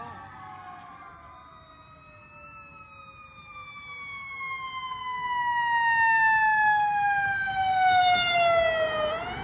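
Emergency vehicle siren on the wail setting: a long, slow falling sweep that turns sharply upward near the end. It grows louder as the vehicle approaches, loudest from about six to eight and a half seconds in.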